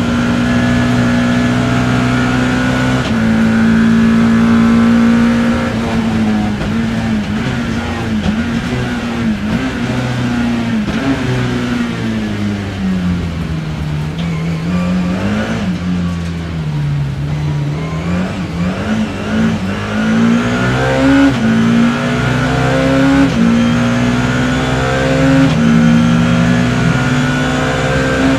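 BMW E30 M3 race car's four-cylinder engine heard from inside the cockpit, running hard with an upshift about three seconds in. The revs then fall over several seconds with short blips as it downshifts into a slow corner, and rise again through a series of upshifts in the second half.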